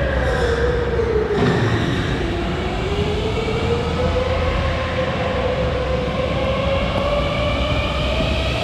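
Italian-made electric go-karts' motors whining on the track. The whine drops in pitch over the first couple of seconds, as the karts slow, then climbs slowly as they speed up again.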